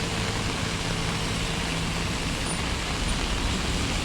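Steady rushing noise of a rain-swollen river in flood, with a vehicle engine's low hum underneath that fades out about two seconds in.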